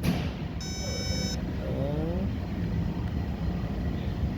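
A single steady electronic beep lasting under a second, starting about half a second in, over a steady low hum; a short click comes just before it.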